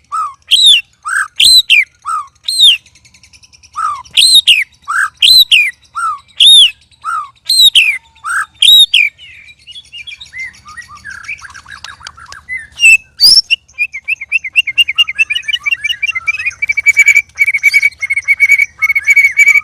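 White-rumped shama (murai batu) singing. It opens with a run of loud, clear whistled notes, high and low notes alternating about once a second. About halfway through it turns to softer, varied twittering, gives one sharp rising whistle, and then a fast, rapid trill that runs on to the end.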